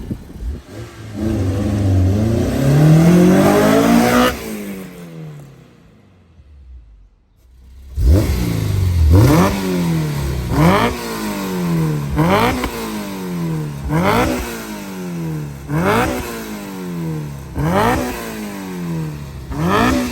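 Honda S2000's four-cylinder engine revving through a Ballade Sports Type S twin-muffler stainless cat-back exhaust: one long climb in revs that falls away, then after a short lull a string of about eight quick throttle blips, each rising sharply and dropping back.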